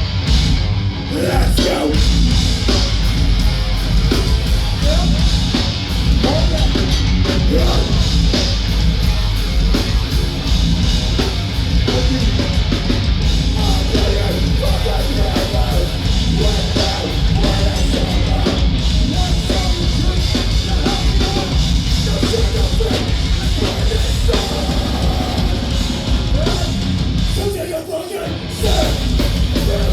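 Live heavy metal band playing at full volume, with yelled vocals over the band. The band drops out briefly about two seconds before the end, then comes back in.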